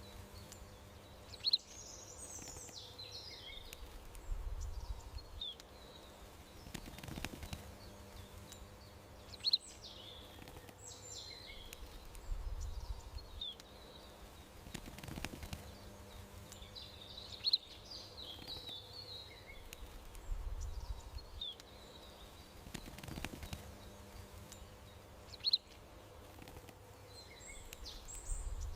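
Small garden birds chirping and twittering, the same short stretch of calls repeating about every eight seconds, each time opening with one sharp chirp, over a low rumble and a faint steady hum.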